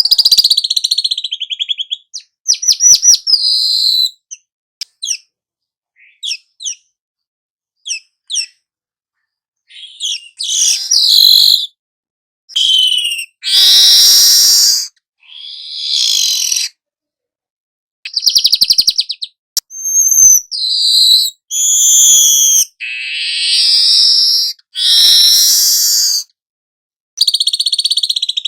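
Young manyar (weaver bird) singing in a long, varied run. It gives rapid buzzy trills and short high chirps one after another, with brief pauses between the phrases.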